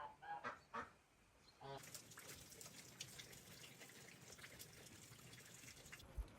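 A few faint, short voice sounds, then from about two seconds in a faint steady patter of water with many small ticks.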